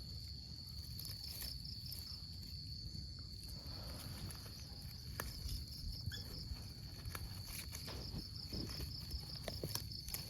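Insects chirring in a steady high trill, with a faster pulsing chirp above it, over a low rumble and a few faint clicks.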